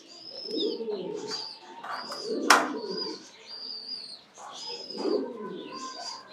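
Pigeons cooing in low rolling bouts, with short high chirps repeating throughout. A sharp click about two and a half seconds in.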